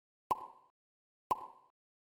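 Two identical short pop sound effects about a second apart, each a sharp click with a brief ringing tone that fades quickly.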